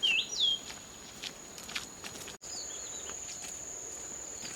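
Steady high-pitched insect drone, crickets, with a bird's whistled chirps: one loud chirp at the start and fainter ones after about three seconds. There are a few scattered light clicks.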